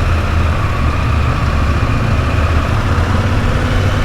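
Motor vehicle engine running steadily: a continuous low drone with a faint high tone above it.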